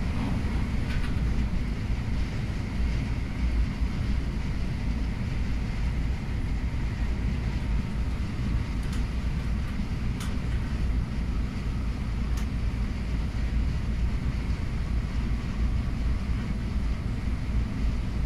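Inside the cabin of an MTR Airport Express A-Train running at speed: a steady low rumble, with a few faint high ticks around the middle.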